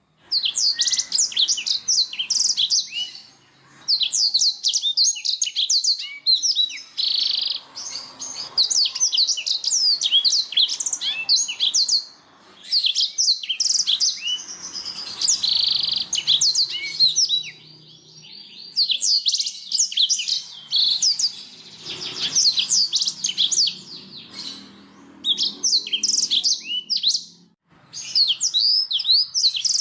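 Domestic canary singing in long, fast trilled phrases of rapidly repeated high notes, broken by a few brief pauses.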